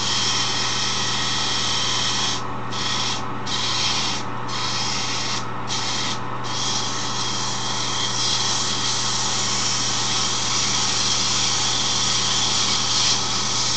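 Sandpaper pressed against a wooden handle spinning on a wood lathe: a steady hiss of sanding over the lathe motor's hum. The paper lifts off briefly about five times in the first half.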